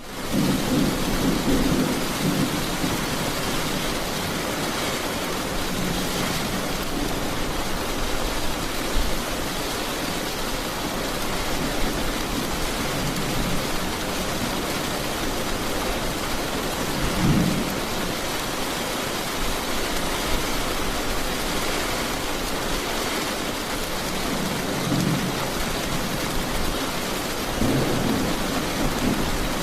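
Heavy rain falling steadily, with low rumbles of thunder swelling briefly near the start, around the middle and twice near the end.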